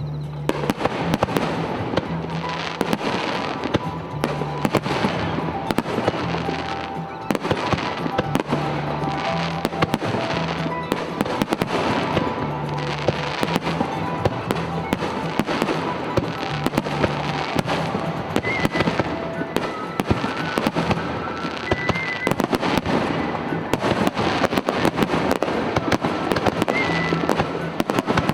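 A fireworks barrage: many shells bursting and crackling in quick, irregular succession, over music with a held, stepping bass line.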